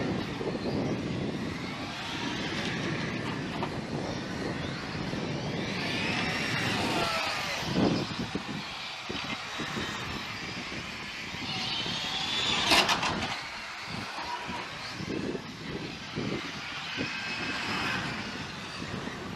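Radio-controlled cars running, their motors whining up and down in pitch as they accelerate and slow, over a rough rumble of tyres. A sharp knock comes about thirteen seconds in.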